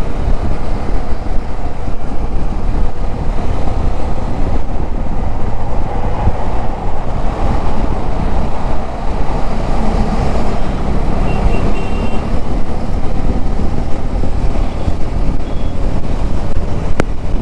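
Wind blast and road noise on a motorcycle rider's microphone at around 80–90 km/h, with traffic around. It is a loud, steady rush with a heavy low rumble from wind buffeting the mic.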